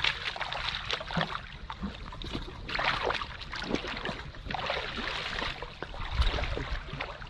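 Irregular splashing and sloshing of water, with a low thump about six seconds in.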